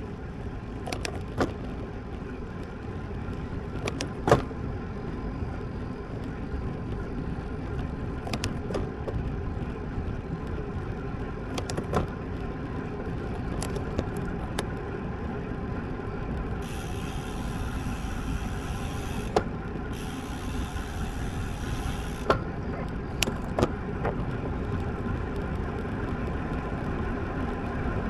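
Wind and road noise while riding a road bike: a steady low rush with scattered sharp clicks and knocks. For several seconds past the middle, a high hiss joins in, broken briefly once.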